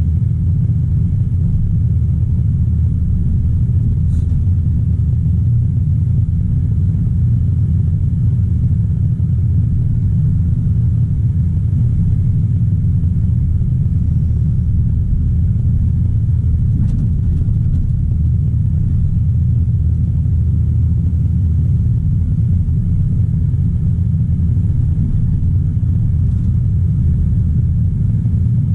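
Diesel engine of a Caterpillar 973C track loader running steadily as a loud, even, low drone.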